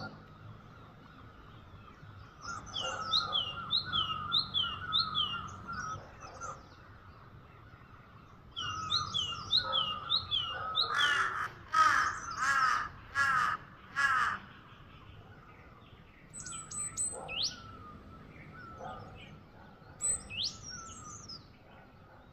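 Wild birds calling. A songbird repeats phrases of quick falling whistled notes twice. In the middle, five loud harsh caw-like calls ring out, followed later by a couple of short rising whistles.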